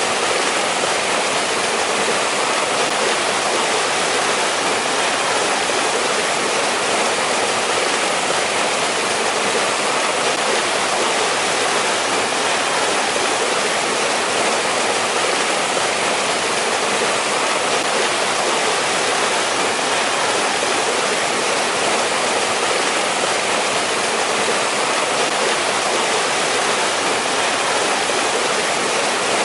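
Mountain stream in a winter valley, water rushing steadily over rocks with no change.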